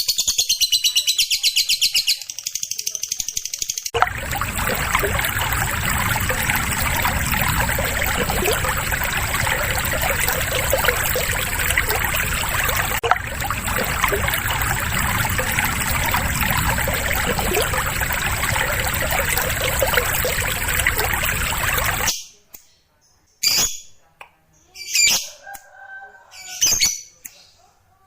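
Lovebird song: a fast, high, pulsing trill for the first few seconds. A long loud stretch of harsh, noisy sound follows, then a few separate sharp calls near the end.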